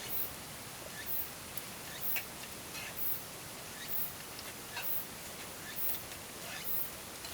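Forest ambience: a steady hiss of river or rain, with a short high chirp repeating about once a second and scattered small ticks.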